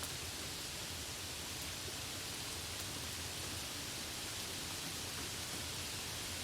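Steady rain falling, an even hiss of many drops with a few faint separate drop ticks.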